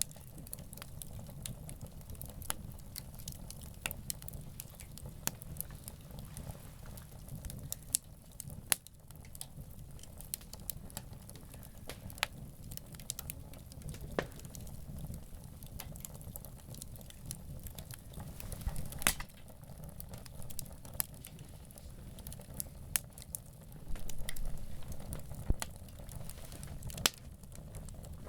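Campfire crackling: wood burning with irregular sharp pops and snaps over a steady low rumble, with a brief louder stretch about three-quarters of the way through.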